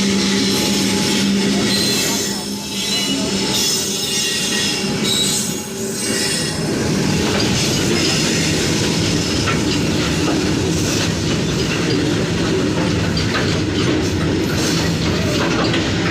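Train running on the rails, with continuous wheel-and-rail noise and squealing. A steady low hum runs through the first half, and sharper clicks from the wheels over the rails come in the second half.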